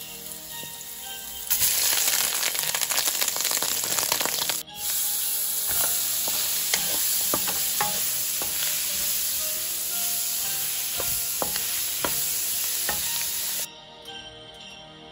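Shrimp, celery and carrots sizzling in hot oil in a wok as they are stir-fried, with occasional sharp clicks of the spatula against the pan. The sizzle starts about a second and a half in, drops out for an instant near five seconds, and cuts off suddenly near the end, leaving soft background music.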